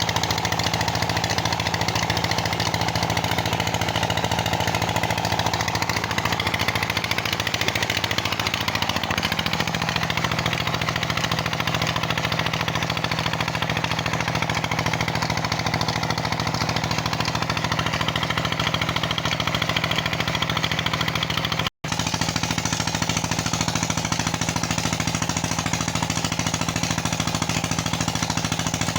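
Peter diesel engine driving a tubewell pump, running steadily with a fast, even knocking beat. The sound drops out for an instant about three quarters of the way through.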